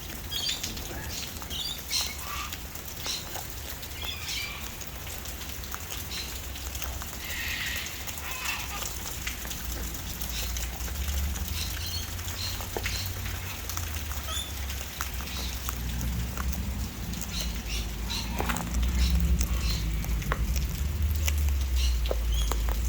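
Steady rain with a constant low rumble that grows louder in the second half, over scattered small clicks and taps of wild birds pecking at scattered seed, with a few faint high chirps.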